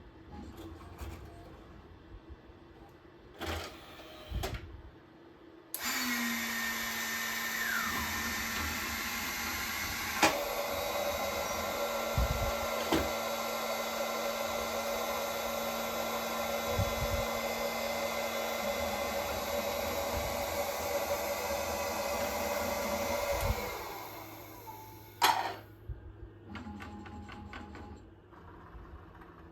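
Small vacuum fan motor of a disc-sucking robot switching on suddenly about six seconds in, running with a steady rushing sound and a held tone, then spinning down about six seconds before the end. A few clicks sound while it runs, and a sharp knock follows after it stops.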